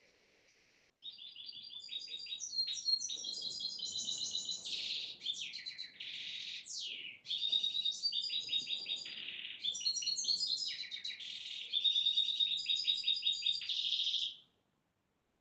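Songbird singing in fast runs of high, sharp chirps and trills, with a few quick downward-sweeping notes. It starts about a second in and cuts off abruptly near the end.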